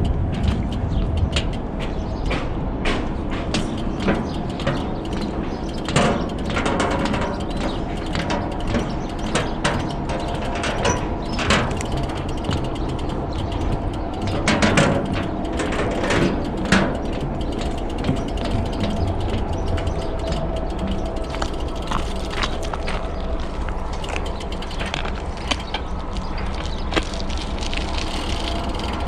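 Road bike's rear freewheel ticking as it coasts, with sharp irregular clicks and rattles over the road surface and a steady low rumble underneath.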